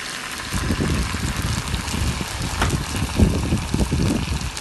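Sauce sizzling and bubbling in a hot pan as dried-chili paste is added, a steady hiss with irregular low bubbling and stirring noises from about half a second in.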